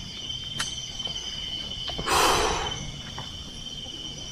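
Steady high-pitched chirring of crickets or similar forest insects, with a few faint ticks and a short breathy rush of noise about two seconds in.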